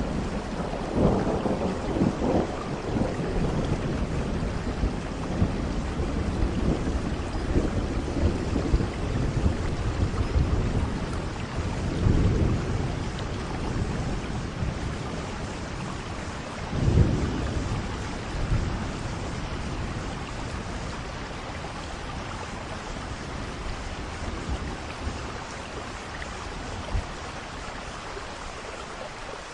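Steady rain falling in a thunderstorm, with low rolls of thunder rumbling through it, the strongest about a second, twelve seconds and seventeen seconds in; the thunder dies down over the last ten seconds, leaving mostly rain.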